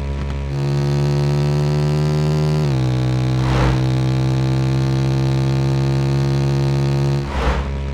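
Motorcycle engine running at held revs, a steady hum whose pitch steps up about half a second in and drops slightly near three seconds.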